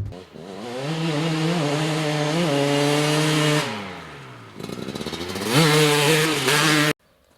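2004 Kawasaki KX250's single-cylinder two-stroke engine revving hard: it climbs and holds high, drops back, then climbs and holds high again before cutting off suddenly near the end.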